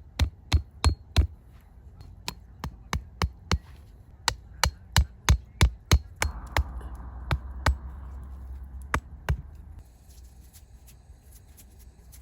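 A knife chopping on a board in quick, even strikes, about three a second, with a couple of short pauses; the strikes stop about nine seconds in.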